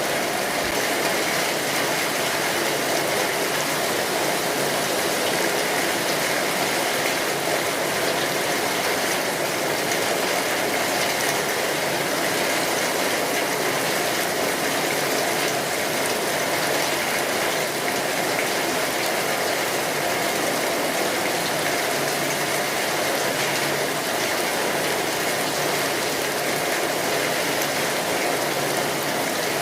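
Steady rainfall, a dense, even patter of drops that keeps on without a break.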